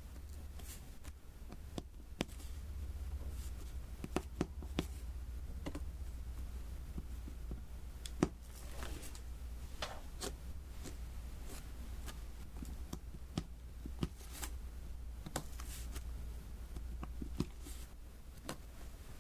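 Diamond painting: small resin beads being picked up with a drill pen and tapped onto the sticky adhesive canvas, making irregular light clicks and taps with the odd short scratch. A steady low hum runs underneath.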